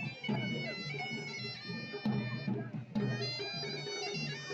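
Procession music: a reedy wind instrument playing a melody in held notes over steady drum beats.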